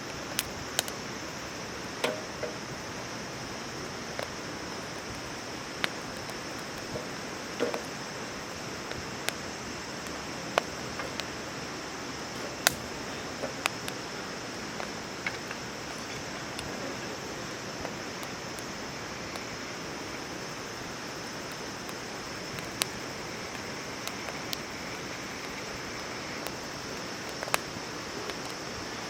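Wood campfire crackling: scattered sharp pops and snaps, one every second or two, over a steady hiss.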